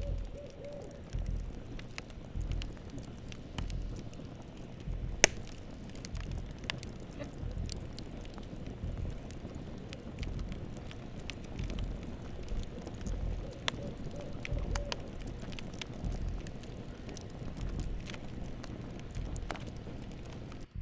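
Campfire crackling and popping over a low rumble, with one loud pop about five seconds in. An owl hoots briefly about two-thirds of the way through.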